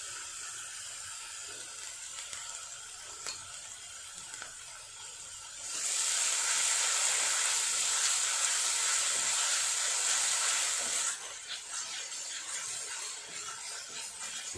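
Chopped cabbage and red chilli sauce sizzling in hot oil in a steel kadhai as they are stirred with a wooden spatula. The sizzle grows much louder from about six seconds in and drops back near eleven seconds, with a couple of light spatula knocks before that.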